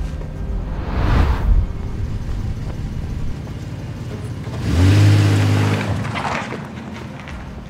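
Car engine running, revving up loudly about five seconds in, with a rush of noise about a second in.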